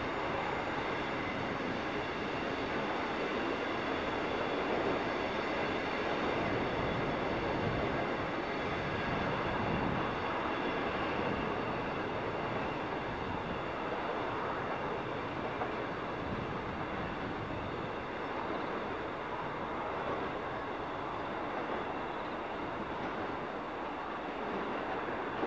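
Freight train's container wagons and boxcars rolling past on the track: a steady noise of wheels on rail with thin, steady high ringing tones over it. The higher sounds dim slightly toward the end as the last wagons draw away.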